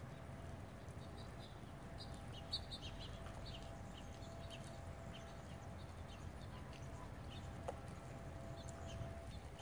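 Small birds chirping in a quick, scattered series of short high calls over a steady low rumble, with a faint steady hum underneath.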